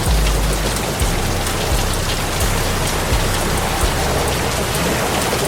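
Heavy rain pouring down, a dense steady hiss with a low rumble underneath.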